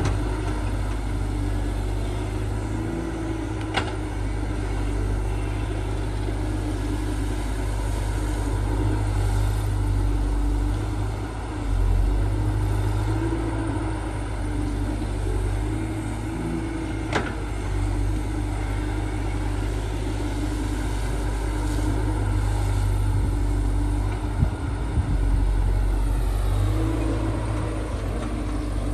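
Diesel engine of heavy earthmoving machinery running steadily, with two sharp clicks partway through and a few brief knocks near the end.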